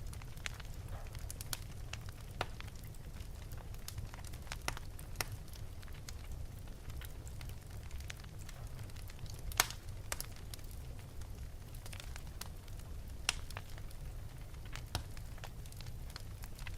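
Wood fire burning in an open fireplace: a steady low rumble of the flames with scattered sharp crackles and pops, the loudest pop about halfway through and another a few seconds later.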